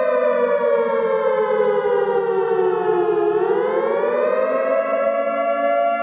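Siren wailing with a rich, many-toned sound, its pitch sinking slowly for about three seconds, then rising again and holding steady.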